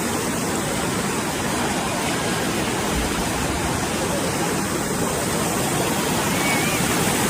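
Steady, even rush of water with no breaks.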